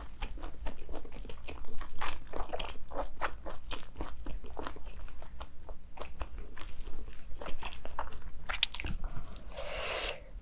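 Close-miked eating: wet, clicky chewing and biting of food, several irregular mouth clicks a second, with a short noisy rush near the end.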